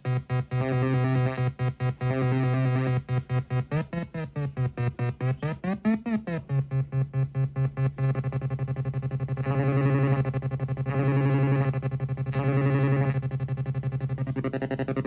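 MFOS Weird Sound Generator, a DIY breadboard synth built on CD40106 square-wave oscillators and running without its filter, buzzing in rapid stuttering pulses. Its pitch sweeps up and back down twice midway. It then settles into a steady drone that swells in slow regular pulses.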